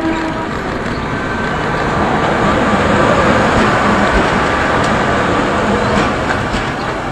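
Renfe class 269 electric locomotive and its passenger coaches passing close by, a loud steady rush of wheels and running gear that builds over the first few seconds, with a few sharp clicks from the wheels in the second half.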